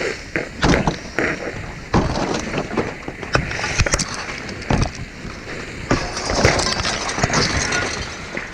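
Irregular clanks, knocks and rattles of a ground ladder being set up against a house window, over a steady rushing noise.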